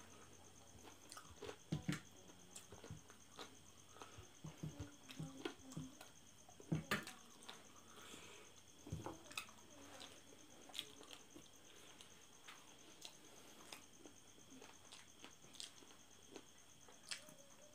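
A person chewing and biting on spicy chicken feet: irregular wet clicks and smacks of the mouth, loudest about two seconds and seven seconds in.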